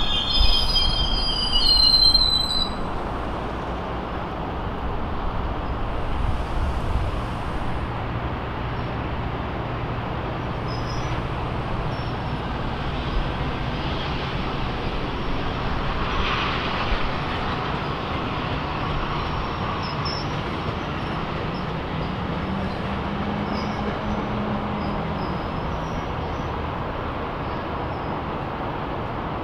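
GO Transit bilevel commuter train running past, its wheels squealing in the first two or three seconds. After that there is a steady rumble of train and track noise with a low hum underneath.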